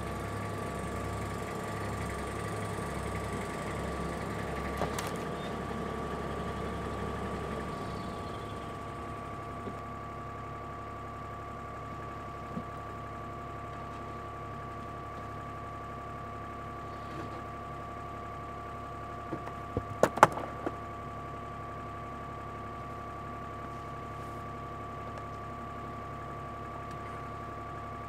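Excavator engine running steadily, heavier for the first several seconds and then settling to an even idle. A quick cluster of sharp knocks about two-thirds of the way through.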